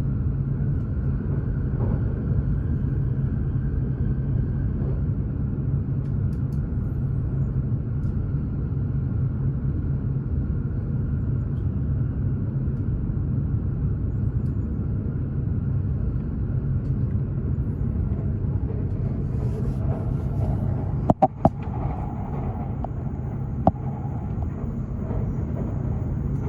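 Steady low rumble of a Hokuriku Shinkansen Kagayaki bullet train running at speed, heard inside the passenger cabin. Near the end, a quick cluster of sharp clicks, then one more.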